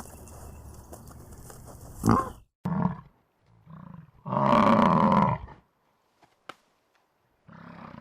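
Loud animal calls cut together: short calls about two seconds in, then one long call lasting over a second, with abrupt cuts to silence between them.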